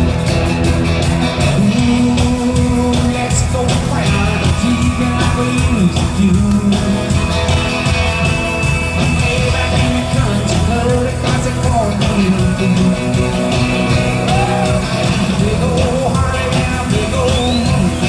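Live rock band playing loud and steady, with guitar, bass and drums and some singing, as heard from the audience in an arena.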